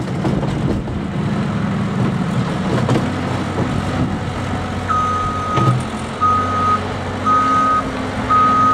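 Snow-clearing vehicle's engine running steadily; about five seconds in its reversing alarm starts beeping, about once a second, as it backs up.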